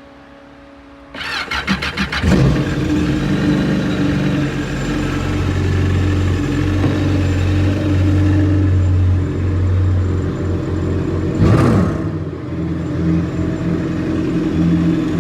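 Yamaha FZR 1800 WaveRunner's supercharged 1.8-litre four-stroke engine cranking quickly for about a second, then catching and running steadily, with one brief rev about eleven seconds in. It starts now that the negative relay's lost contact, the cause of the no-start, has been cleaned.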